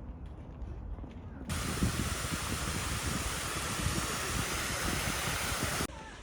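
A loud, steady hiss with a low rumble beneath it. It cuts in suddenly about a second and a half in and stops just as suddenly near the end.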